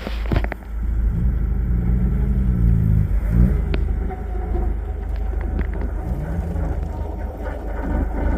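A 4x4 truck's engine running with a deep rumble. It is revved up and back down twice: for a couple of seconds starting about a second in, and briefly again around six seconds.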